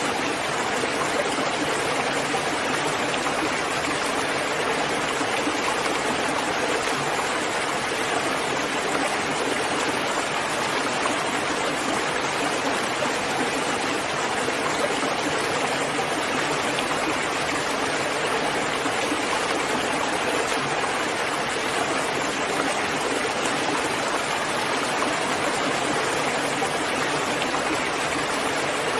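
Steady rain falling, an even rushing hiss with no single drops or other events standing out.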